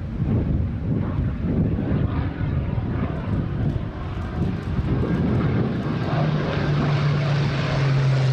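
Propeller airplane engine running with rough, wind-like noise; about six seconds in a steady engine drone comes up and falls slightly in pitch toward the end.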